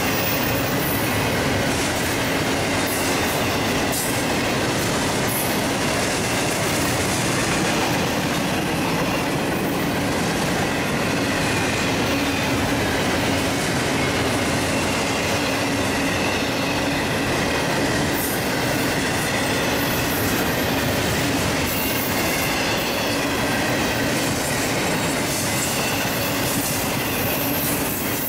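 A train's cars rolling past, a steady rumble and rattle of wheels on rail with a faint, steady high squeal.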